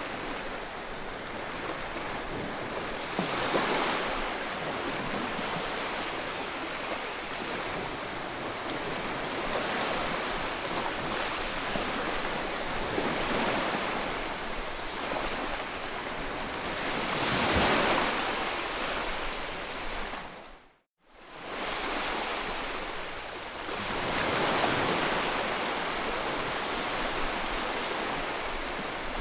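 Sea waves surging and washing in as a steady rush, swelling louder now and then as bigger waves break. The sound drops out completely for a moment about two-thirds of the way through.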